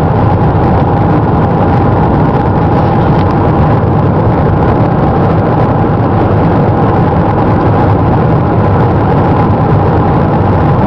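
Steady road noise inside a moving car: engine and tyres running evenly, with a constant hum.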